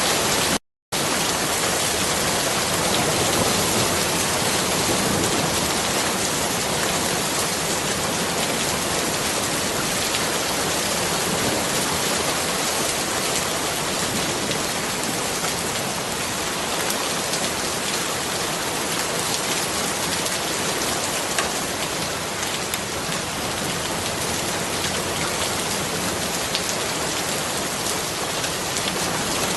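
Steady rain falling: an even hiss with scattered drop ticks. The sound cuts out completely for a split second just under a second in, then resumes unchanged.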